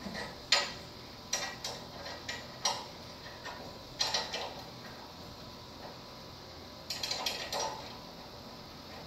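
Irregular sharp metallic clicks and clinks, bunched in a few clusters, as steel winding bars are worked in the winding cone of a garage door torsion spring.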